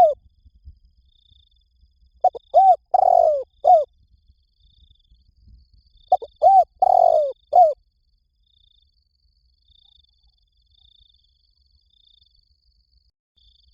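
Spotted dove cooing its song twice, about four seconds apart. Each phrase has two short coos, a longer falling coo and a short closing coo. Faint high chirps sound in the background.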